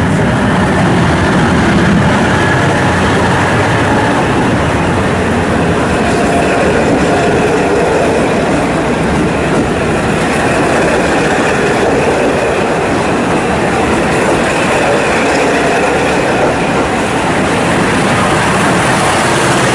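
Furano–Biei Norokko sightseeing train running along the track, with a steady noise of wheels and carriages on the rails.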